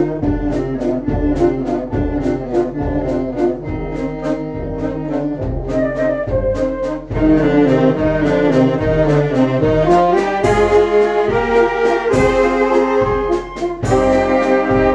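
Children's brass band playing, with the brass over a steady beat of low notes and percussion strikes; about halfway through the band comes in fuller and louder.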